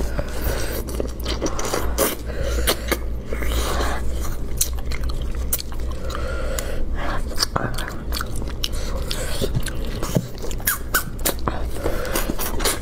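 Close-up mukbang eating sounds: chewing and smacking on spicy braised rabbit heads, with frequent short wet clicks and crackles as the heads are torn apart by hand and the meat is sucked off the bone.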